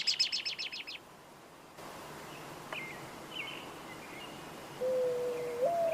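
A bird gives a fast trill of about nine high chirps in the first second, followed by a few faint short whistled calls. Near the end a steady held tone comes in.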